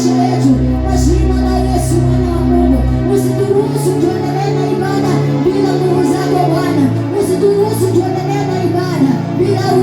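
Congregational worship music: voices singing over instrumental accompaniment with held low notes that change every second or two.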